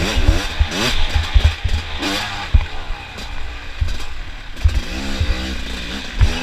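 Dirt bike engines revving up and down during an off-road race, their pitch rising and falling again and again, with short low thumps mixed in.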